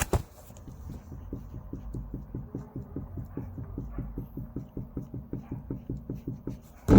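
Rear wheel hub bearing of a Lada Largus knocking rhythmically, about four to five knocks a second, over a low rumble. The knock has survived the dealer's replacement of both rear hub bearings; there is no hum, only knocking.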